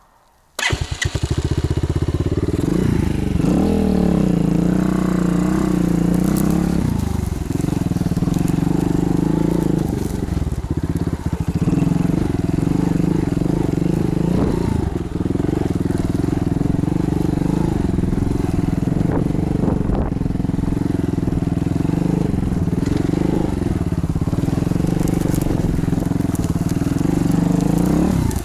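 Pit bike engine running as the bike is ridden off-road, revving up and down, cutting in abruptly about half a second in.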